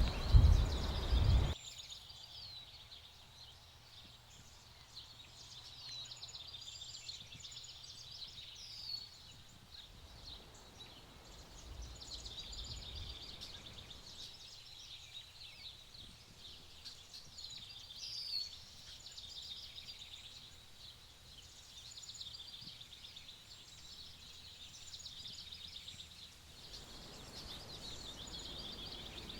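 Spring woodland bird chorus: many small songbirds singing and chirping at once, with a few louder nearby calls now and then. A short low rumble opens it in the first second or so.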